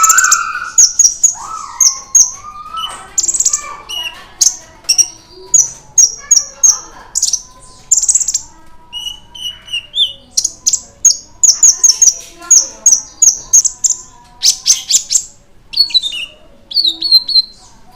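Kolibri ninja sunbird singing energetically: a rapid string of short, sharp, high chirps, several a second, with a few falling trilled notes near the end.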